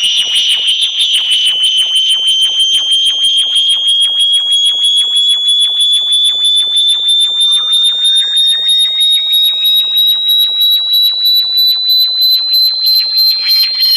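Synthesized electronic bat-repellent tone: a loud, rapidly pulsing high-pitched sweep that rises slowly in pitch, joined about halfway through by a fainter second tone gliding upward.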